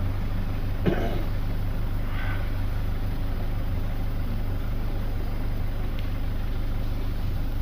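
Outboard motor of a river tour boat running steadily at low speed, a constant low hum.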